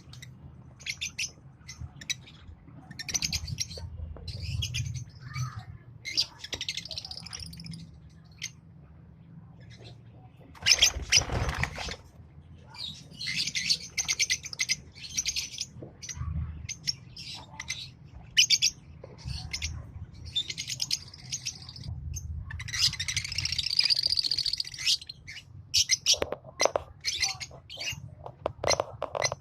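A pair of green Fischer's lovebirds chirping and chattering in bouts of rapid, high-pitched chirps, with short pauses between bouts. About eleven seconds in, a loud rustling noise lasts a second or so, and a steady low hum sits underneath throughout.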